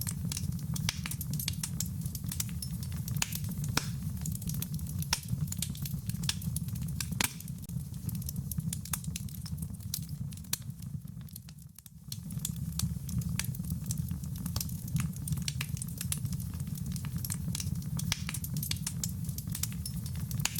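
Wood fire crackling with frequent sharp pops over a steady low rumble. The sound fades almost out about twelve seconds in, then comes straight back.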